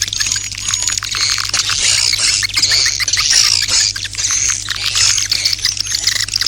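Swiftlets calling: a dense chorus of rapid chirps and twittering trills, a swiftlet call recording of the kind played to lure the birds. A steady low hum runs underneath.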